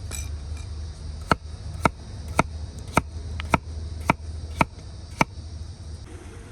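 Knife chopping food on a cutting board: eight sharp, even strokes, about two a second, over a steady low rumble.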